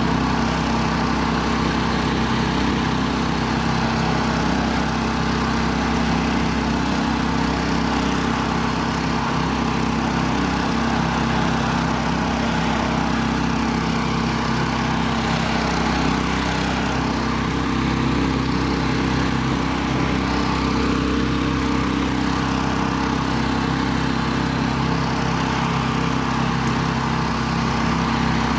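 Engine of a homemade karakat all-terrain vehicle running steadily at an even pitch.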